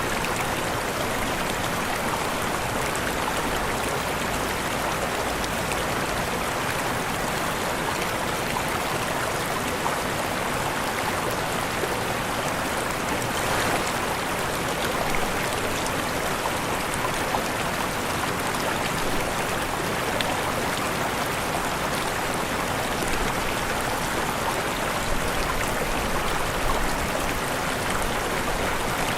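Waterfall: water falling and rushing in a steady, even roar, with small splashes flecked through it.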